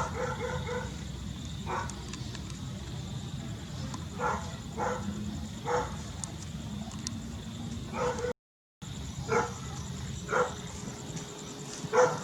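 An animal's short pitched calls, about ten of them at irregular intervals, over a steady low hum.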